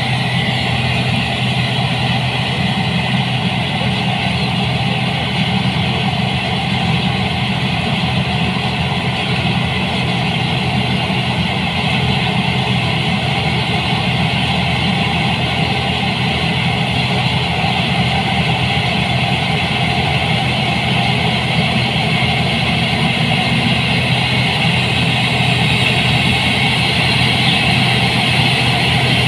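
New Holland 8060 combine harvester running steadily, its engine drone carrying a dense mechanical noise, growing a little louder near the end.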